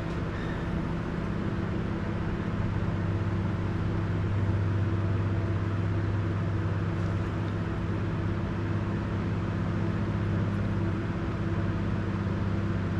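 Steady low mechanical hum with a few held tones, unchanging throughout.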